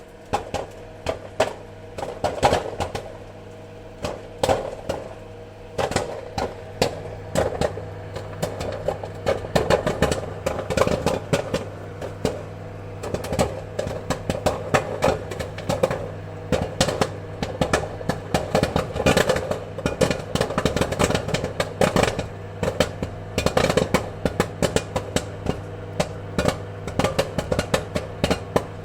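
Popcorn kernels popping in quick, irregular succession over a steady low hum. The pops are sparse at first and come thicker after a few seconds.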